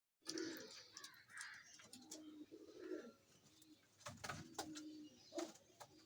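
Pigeons cooing in low, steady drawn-out notes, with a few sharp clicks or taps mixed in a little past the middle.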